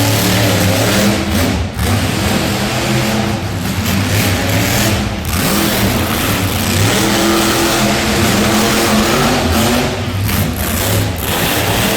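A monster truck's engine running loudly and revving up and down, with brief dips in between.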